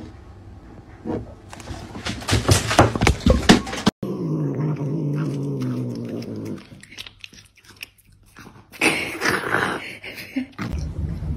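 A run of sharp clicks and knocks, then a cat's low, drawn-out growl of about two and a half seconds as it bites into a piece of food. Chewing and snapping sounds follow: the cat is guarding its food.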